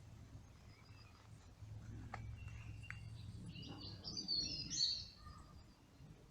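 Small birds singing in woodland: a few high chirps, then a brief burst of high twittering song just past the middle, over a steady low outdoor rumble.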